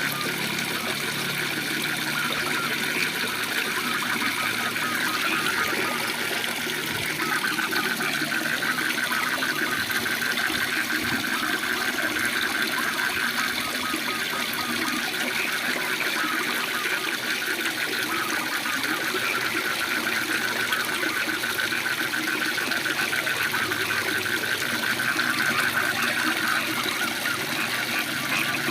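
A waterfall running as a steady rush of water, with a continuous chorus of rapidly pulsing frog calls over it.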